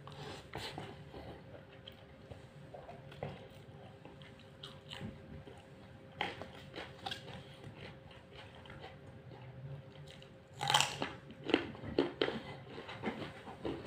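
Close-up chewing of a handful of rice and chicken. About ten and a half seconds in, a run of loud, sharp crunches from biting and chewing a raw carrot stick.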